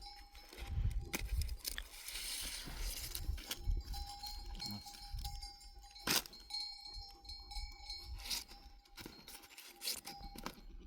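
Livestock bells on a herd of goats or sheep, clinking and ringing irregularly against a low rumble.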